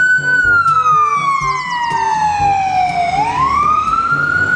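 Ambulance siren on its wail setting: one long tone that falls slowly for about three seconds, then sweeps back up near the end.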